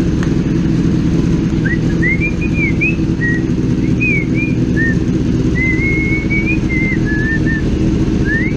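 Kawasaki ZX-10R inline-four engine idling steadily, with a person whistling a short tune over it from about a second and a half in.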